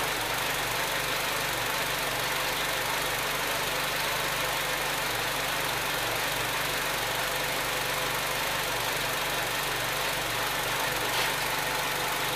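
Nissan car engine idling steadily, heard close up in the open engine bay.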